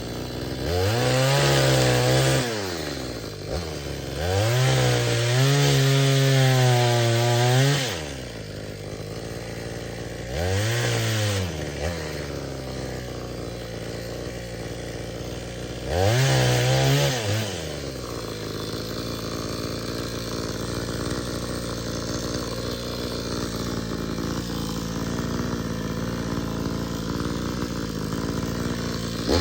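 Sportsman Series 20-inch 52cc two-stroke chainsaw idling and revving to full throttle four times, each rev rising quickly and dropping back to idle; the longest lasts about four seconds. The full-throttle runs fit cutting through wood.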